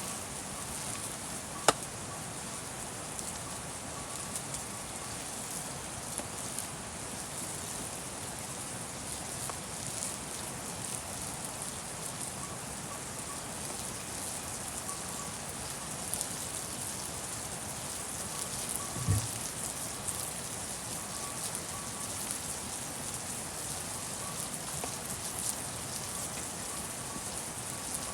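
Steady rain falling, an even hiss of drops, with a sharp click about two seconds in and a dull thump around nineteen seconds.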